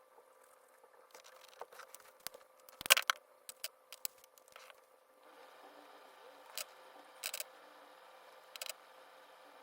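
Scattered small clicks and light scrapes, with a louder clatter of clicks about three seconds in; a faint steady hiss comes up about halfway through.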